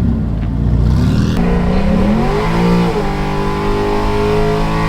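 Car engine revving hard: the pitch climbs sharply after about a second and a half, dips briefly around three seconds in, then is held steady at high revs.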